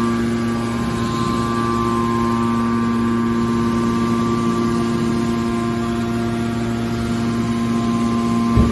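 Industrial machinery running with a steady, even hum made of several fixed tones. A single low thump comes near the end.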